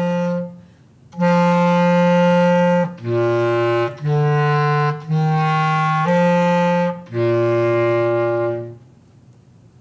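Bass clarinet playing a slow (largo) melody. A held note breaks off about half a second in, followed by a long note, four shorter notes of about a second each, and a long final note that dies away near the end.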